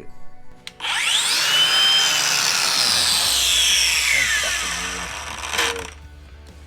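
A hand-held electric power tool spinning up quickly and then slowly winding down in pitch over about five seconds, stopping near the end.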